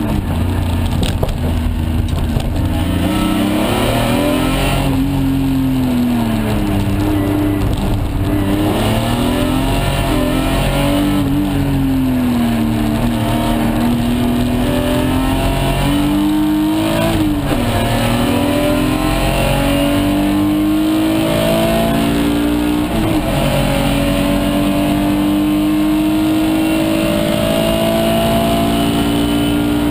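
BMW S50B30 3.0-litre straight-six, swapped into an E46 328, heard from inside the cabin while lapping a race track. The engine note climbs and drops several times as the car accelerates and slows for corners, then climbs steadily through most of the last third.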